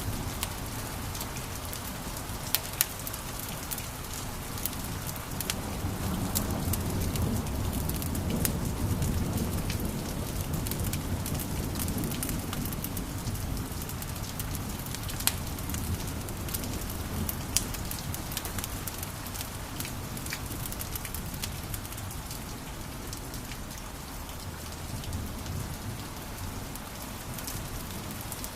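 Wood fire in a fireplace crackling, with scattered sharp pops over a steady low rumble of the flames.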